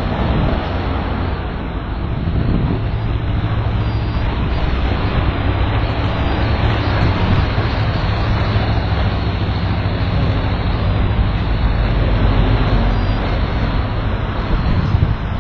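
A loud, steady engine rumble, heaviest in the low end with a rushing noise over it, swelling slightly now and then.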